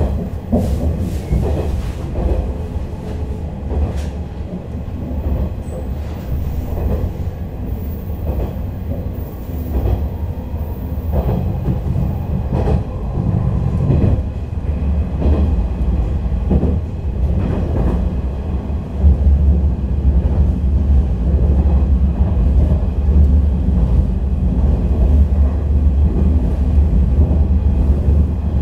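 Inside a 485-series electric train carriage running along the line: a steady rumble of steel wheels on rail with irregular knocks as the wheels pass over rail joints. The rumble grows louder about two-thirds of the way in.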